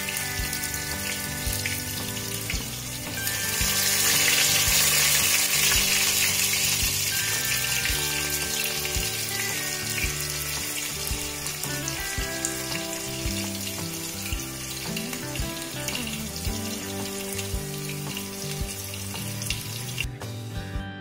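Sliced onions, green chillies, mint and coriander sizzling as they fry in hot oil, the sizzle swelling loudest about three seconds in and then easing, with background music underneath.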